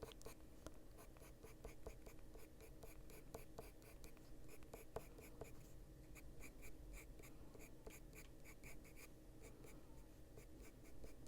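Faint scratching of a Caran d'Ache Luminance coloured pencil on paper, in short, quick feathering strokes repeated about three to four times a second.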